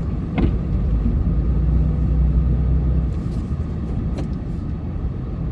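Plow truck's engine running with a steady low rumble, easing slightly about three seconds in.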